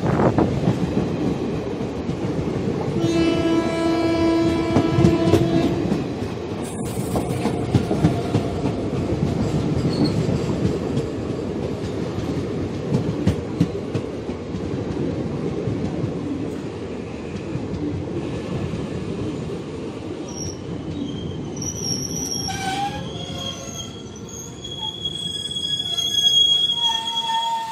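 Express train coaches passing at speed, a steady rumble and clatter of wheels over the rails. A long horn note sounds for about three seconds a few seconds in, and high-pitched metallic wheel squeals come in over the last several seconds.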